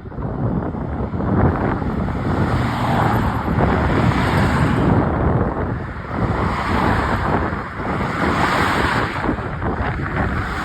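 Strong wind blowing across the microphone, a loud, rushing noise that comes and goes in gusts.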